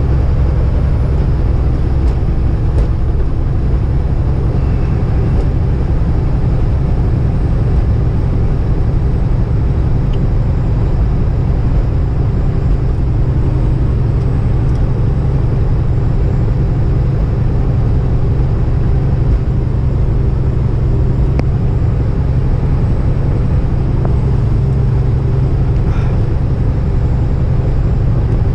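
Kenworth semi-truck's engine and road noise droning steadily inside the cab while driving at highway speed, a constant low rumble with no change in pitch.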